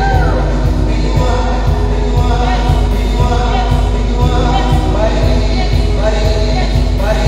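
Church worship song: voices singing a melody over a band with a steady bass beat.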